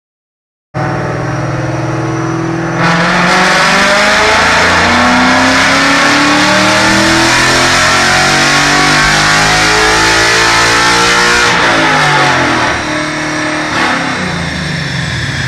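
2016 Ford Mustang GT's 5.0 L Coyote V8, breathing through headers and a full exhaust, doing a wide-open-throttle pull on a chassis dyno. It runs steadily at first, then about three seconds in the throttle opens and the pitch climbs steadily for some eight seconds; after that it lifts off and the pitch falls, with a short blip near the end.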